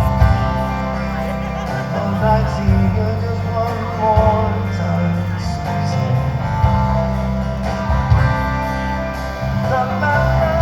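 Live band playing a slow instrumental passage, led by acoustic guitar over a steady bass.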